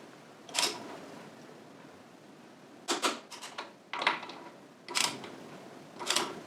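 Tools and parts being handled on a motorcycle in a workshop: a series of short clicks and clacks about a second apart, with a quick cluster of three just under halfway through.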